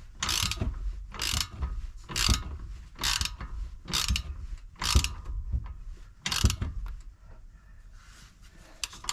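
A 17 mm wrench ratcheting as it tightens the nut on a new front stabilizer link, in seven short clicking strokes about a second apart that stop about six and a half seconds in.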